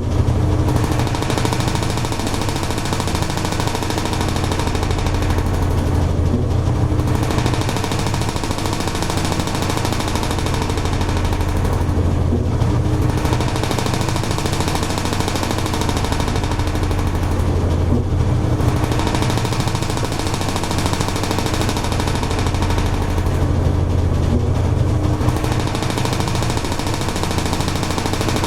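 Toshiba AW-42SEE4 fully automatic washing machine running mid-course: a steady motor hum with churning, rattling noise that briefly eases about every six seconds.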